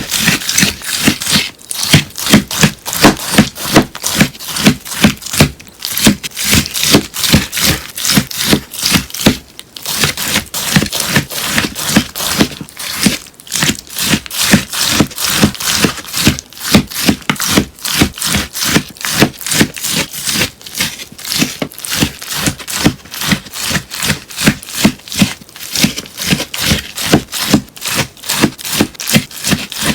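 Crunchy melamine-sponge slime being pressed and squeezed by hand, a run of crisp crackling crunches at about two or three a second.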